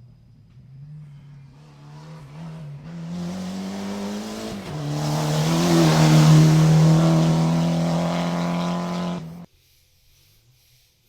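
A cross-country rally vehicle's engine running hard at a steady high pitch, growing louder as it approaches, with its note dipping briefly about halfway in. It cuts off suddenly near the end.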